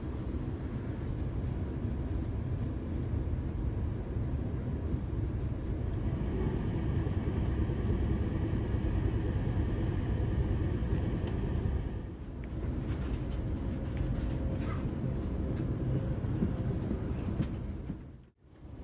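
Steady rumble of a double-decker passenger coach running at speed on the rails, heard from inside the coach, with a faint whine in the middle. The sound cuts out briefly near the end.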